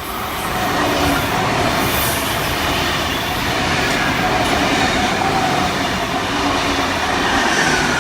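A V-set double-deck electric intercity train passing through the station at speed. The steady, loud rush of its wheels on the rails builds over the first second, with faint whining tones over it.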